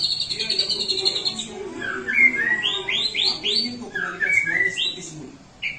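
White-rumped shama (murai batu) singing: a fast trilled whistle for about the first second and a half, then a run of quick rising, sweeping whistled notes, pausing briefly near the end.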